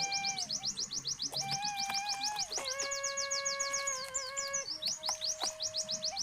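A songbird singing a fast, even trill of high down-slurred chirps, about ten a second, over sustained electronic music notes that step in pitch.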